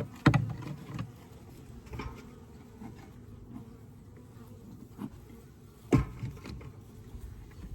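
Honeybees buzzing around the hive, a steady low hum, with a sharp knock about six seconds in.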